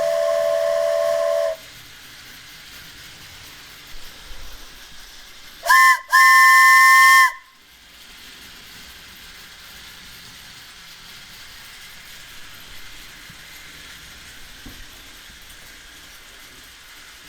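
Wooden carved train whistle blown in breathy, chord-like blasts. One blast ends about a second and a half in. Around six seconds in come a short toot and then a longer, higher and louder blast.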